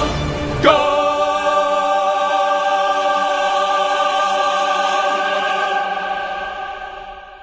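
The final chord of a choral song: a choir holds one long chord, struck with a sharp accent about a second in, then fading away near the end.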